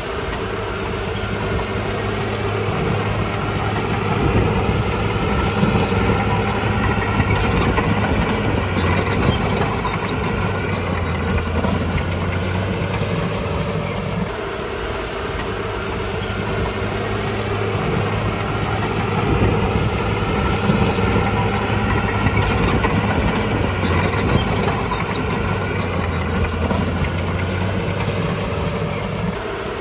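Bulldozer's diesel engine running under varying load, its hum rising and falling several times as it works. Short bursts of metallic clatter come through about nine seconds in and again near the end.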